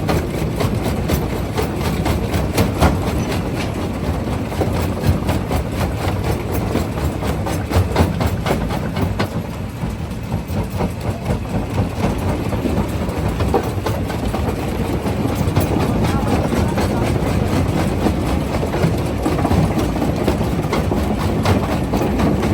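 Primary jaw crusher running with a steady heavy rumble as rock cracks and clatters between the jaws in frequent sharp knocks. The knocks thin out for a few seconds about halfway through.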